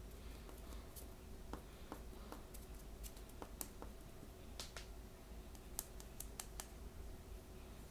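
Hands handling small blind-bag packaging and plastic toy figures: scattered light clicks, taps and crinkles, a few sharper ones in the middle, over a faint steady hum.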